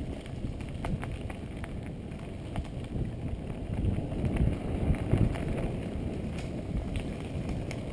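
Wind buffeting an action camera's microphone on a moving bicycle: a rough low rumble that swells about halfway through. Scattered small clicks and rattles run through it.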